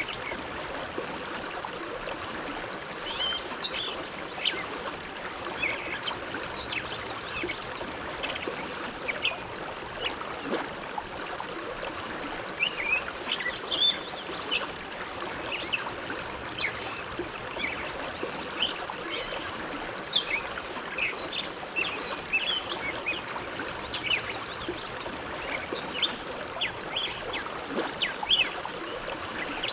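The Bow River flowing steadily, a continuous rush of water with many brief, irregular high plinks and gurgles as it runs over stones.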